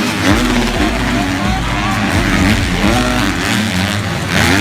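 Several motocross bike engines racing, their pitch rising and falling again and again as the riders work the throttle.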